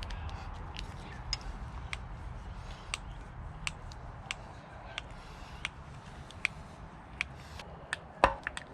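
Hand grease gun being pumped into a grease fitting on the Bobcat 753's quick-attach pin mechanism, the lever clicking sharply about every half to one second, with a couple of louder metal knocks near the end. The fitting is taking grease.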